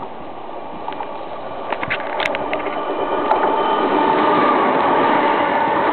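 Electric train approaching, its rumble growing steadily louder over the first three seconds, with a few sharp clicks about two seconds in, then a loud steady rush with a faint whine as it passes.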